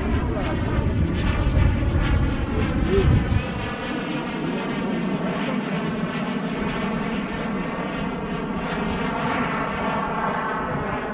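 Radio-controlled model jet in flight, its engine giving a steady, many-toned whine. A heavy deep rumble under it drops away about three and a half seconds in.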